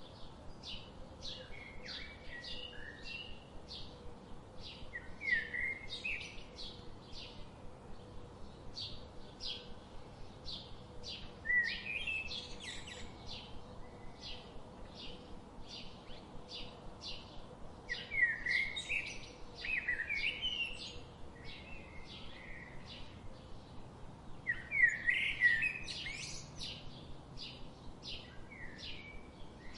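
Songbirds chirping: one bird gives a steady run of short, high chirps, about two or three a second, while louder warbling phrases break in several times.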